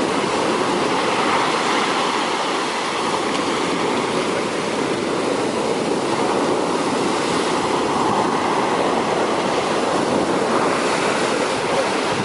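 Large sea waves breaking on the shore, a steady, continuous wash of surf.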